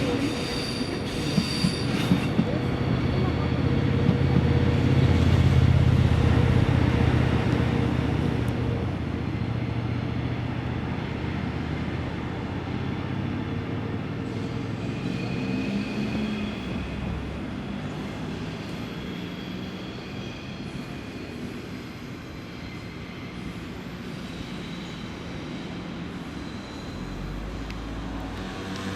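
Passenger trains moving slowly through a large terminal station. Wheels click over rail joints and points in the first couple of seconds. A low rumble swells about five seconds in and slowly fades, with faint steady wheel squeal on and off.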